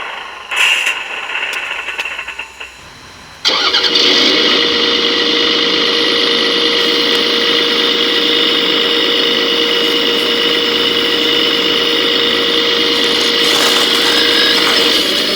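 A 1:14-scale RC machine starts up. About three and a half seconds in, a loud, steady mechanical running sound begins suddenly, with a constant whine through it.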